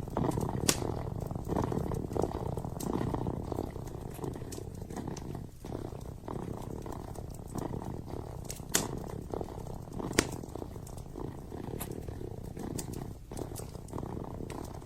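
A kitten purring steadily, over the crackle of a wood fire burning in a fireplace, with scattered sharp pops from the fire, the loudest two a little after the middle.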